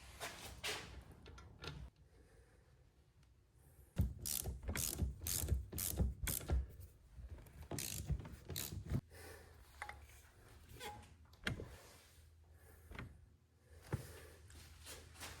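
Hand ratchet wrench working a suspension part: fast runs of metallic clicks, thickest from about four to nine seconds in, then scattered clicks and knocks.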